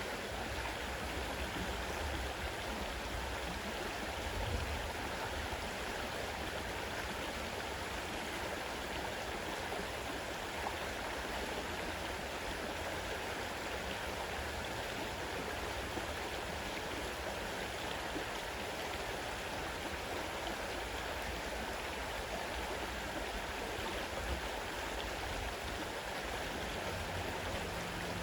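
A fast-running river rushing steadily, an even wash of water noise.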